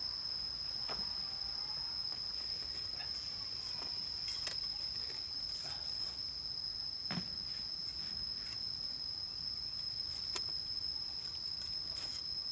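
Crickets chirring in one unbroken high-pitched drone, with scattered light clicks and a soft knock about seven seconds in.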